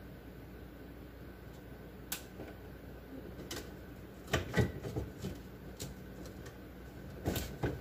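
Scattered light knocks and clatter of items being handled and set down in a refrigerator, a cluster of louder ones about halfway through.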